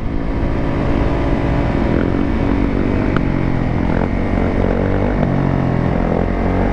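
Dirt bike engines running and revving, their pitch rising and falling.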